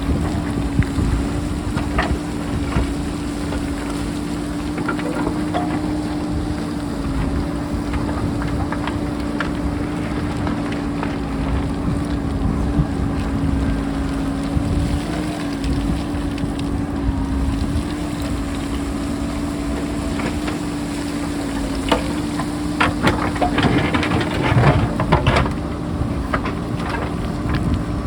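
JCB backhoe loader's engine running steadily with a constant hum, under heavy wind buffeting on the microphone. Near the end comes a run of sharp clattering knocks of rock and stone tumbling as the hillside is dug.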